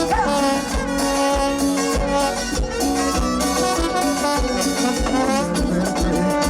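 Live Latin dance band playing an instrumental passage, horns carrying the melody over a steady, even beat.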